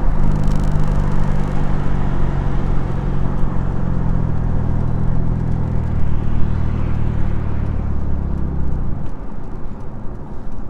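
Honda Civic with its muffler and resonator deleted, driving along with a steady low exhaust drone. The drone fades out about nine seconds in, leaving road rumble.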